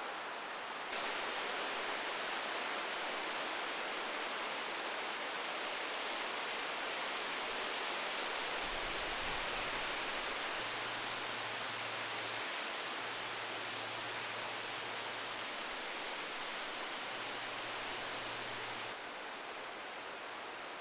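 Heavy rain pouring down, a steady hiss that steps up about a second in and drops back near the end.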